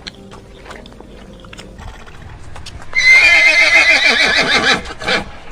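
Horse whinnying: one loud neigh about three seconds in that starts high and falls in a quavering pitch for about two seconds. It comes after a few faint knocks.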